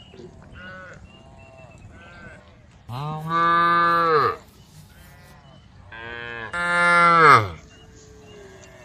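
A cow mooing twice, two long, loud calls about a second and a half each, the second stepping up louder partway through. Fainter short animal calls sound in the background before them.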